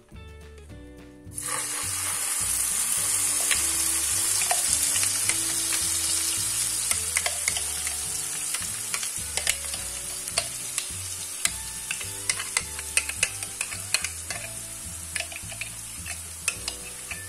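Ground spice paste going into hot oil in a pan: a sudden loud sizzle starts about a second in. It carries on as steady frying, with sharp crackling pops that come more often toward the end.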